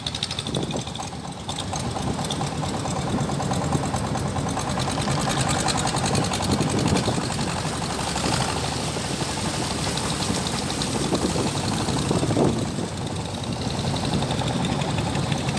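Long-tail boat's engine running steadily under way, a fast even beat of firing strokes.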